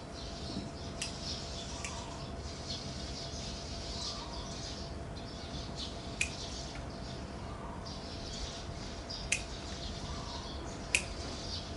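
Birds chirping in the background, with a few short, sharp clicks standing out above them now and then.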